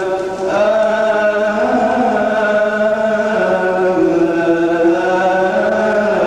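A male priest's voice chanting a long melisma of Coptic liturgical chant in Arabic, holding notes on a single syllable and stepping slowly from one pitch to the next.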